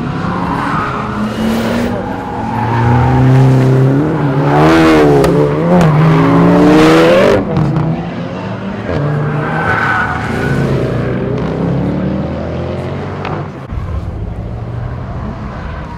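Performance car engines revving hard on a race track, pitch rising and falling in quick swings, loudest in the middle and dropping off sharply a little after seven seconds in.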